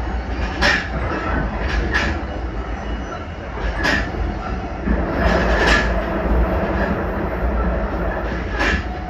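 Limited Express Shinano 383-series electric train running along the line: a steady low rumble with about five sharp clacks spread irregularly, as the wheels pass rail joints.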